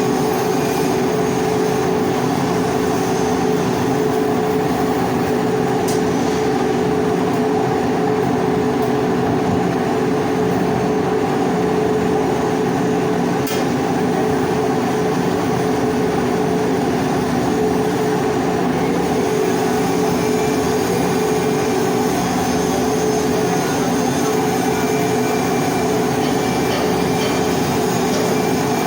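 Steady machine hum with a dense, continuous crackle, consistent with arc welding while hardfacing a pipe; it runs unbroken at an even level.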